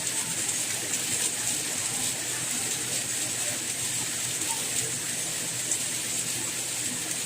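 Steady soft rain: an even hiss of falling rain with faint scattered drop ticks, unchanging throughout.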